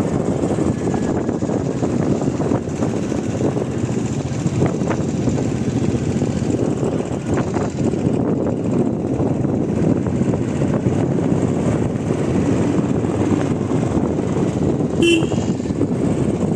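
Steady rumble and road noise of a vehicle on the move, with a short horn toot about fifteen seconds in.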